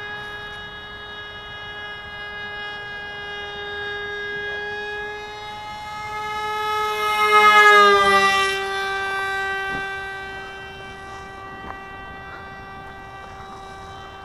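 RC model airplane's motor and propeller whining steadily in flight. It grows louder to a close pass about eight seconds in, the pitch dropping sharply as the plane goes by, then steadies again.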